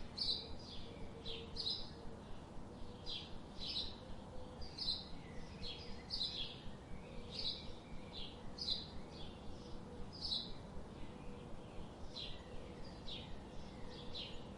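A bird calling over and over in short, high chirps, repeated about once or twice a second with brief gaps.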